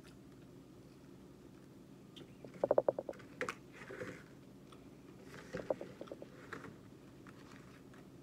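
Close-miked chewing of a mouthful of burger, with two short runs of rapid clicking, the louder about three seconds in and the other about six seconds in. A faint steady low hum lies underneath.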